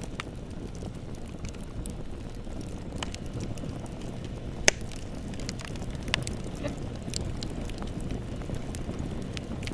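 Bonfire burning with a steady low roar of flames and scattered wood crackles, one loud sharp pop a little before the middle and a smaller one about a second and a half later.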